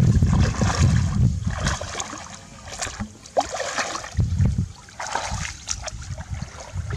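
Water splashing and sloshing in irregular bursts, with low wind rumble on the microphone in the first second and again about four seconds in.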